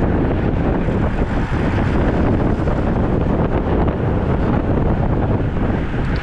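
Wind buffeting the microphone of a camera riding along on a road bike: a loud, steady noise, heaviest in the low end.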